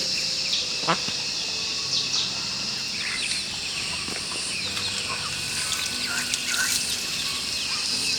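Rural outdoor ambience: a steady high insect drone with scattered short bird chirps.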